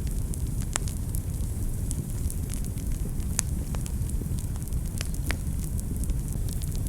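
Wood fire burning steadily in a fireplace, with a low rumble and frequent irregular sharp crackles and pops.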